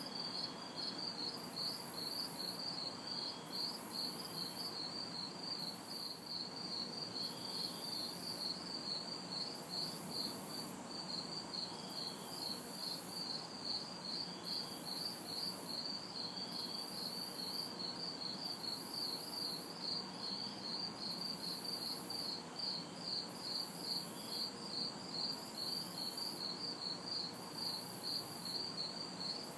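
Night chorus of crickets: a steady, rapidly pulsing chirp. A higher-pitched insect trill comes in and stops about every two seconds. Underneath is a low hum of distant city traffic.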